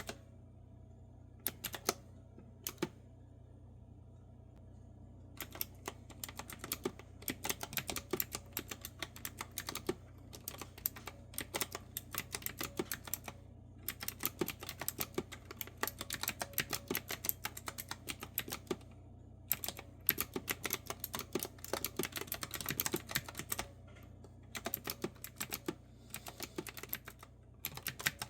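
Clicky retro-style keyboard with round keycaps being typed on in quick bursts of crisp key clicks, with short pauses between runs. Only a few scattered keystrokes in the first seconds, then steady fast typing.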